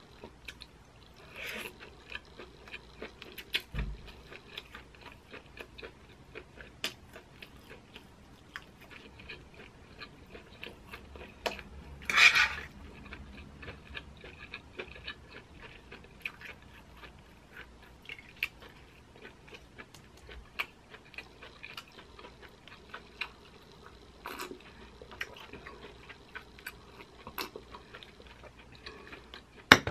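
A person chewing a mouthful of corn cheese, sweet corn kernels under melted mozzarella: a steady stream of small soft clicks and squishes. A louder noise comes about twelve seconds in and a sharp click at the very end.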